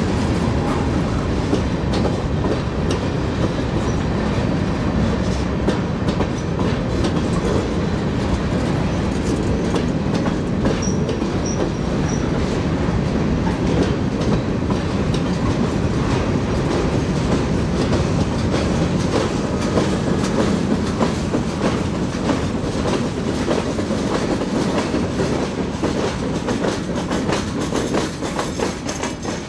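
Freight train of covered hopper cars rolling past steadily, a continuous rumble with the wheels clacking over rail joints; the clicks come thicker in the second half.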